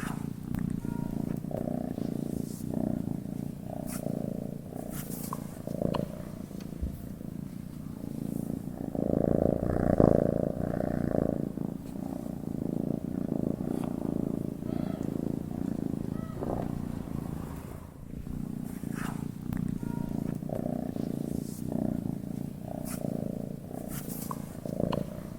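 Domestic cat purring as it sleeps: a continuous low rumble that swells and eases in a slow rhythm, loudest about ten seconds in.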